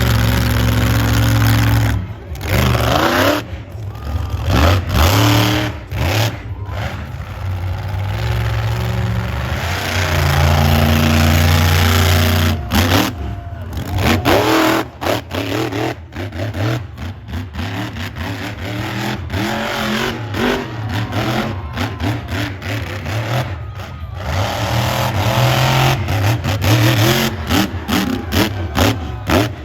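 Monster truck engine revving hard in repeated surges, its pitch rising and falling with the throttle. The sound breaks off sharply many times, more often in the second half.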